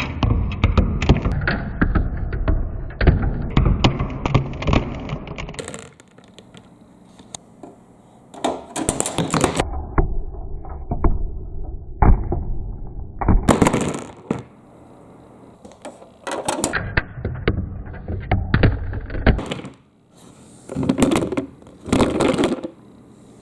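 Marbles rolling and clattering down a marble run: a dense rattle of clicks over a rolling rumble for the first six seconds, then several shorter bursts of clicking and rolling separated by quieter gaps.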